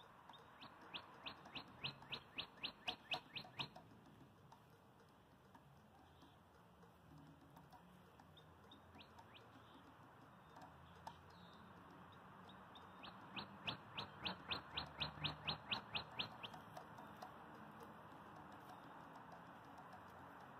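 A bird calling in two series of short, evenly spaced sharp notes, about four a second and each about three seconds long, the second series starting some ten seconds after the first.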